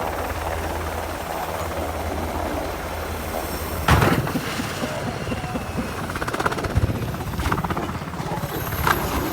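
Black Hawk helicopter rotor noise, a steady low throb under a rushing haze. A loud sharp thump stands out about four seconds in.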